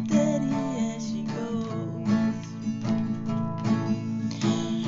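Acoustic guitar strummed in steady chord strokes, under a sung word held and falling in pitch near the start.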